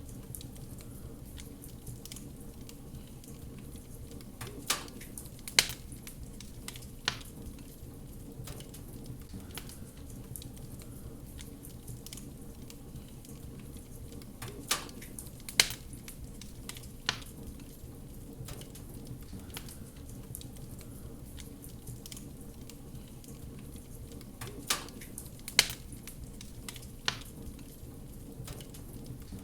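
Wood fire crackling: a steady low rumble of the burning fire with scattered sharp pops, the loudest coming in clusters of three about every ten seconds.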